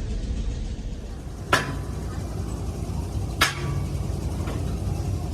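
Two sharp metal-on-metal clanks about two seconds apart, each ringing briefly, then a faint tap, over a steady low engine rumble.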